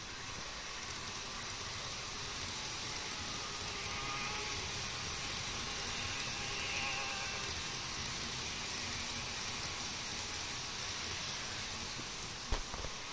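N gauge model Shinkansen train running on its track, a steady rolling rush with a faint motor whine that swells as it passes and then eases off, with a single sharp click near the end.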